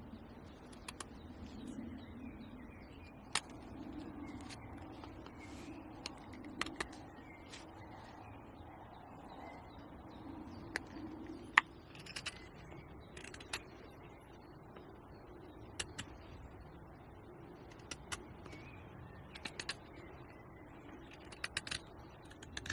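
Irregular sharp clicks and pops, some in quick little clusters, over a faint steady low rumble.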